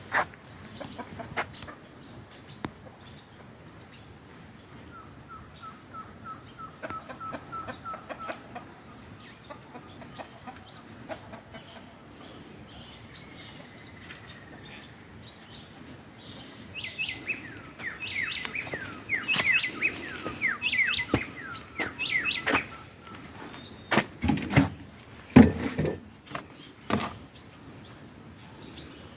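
Birds calling: a run of short, evenly spaced notes, then a fast series of falling chirps, over crunching footsteps, with a few louder thumps near the end.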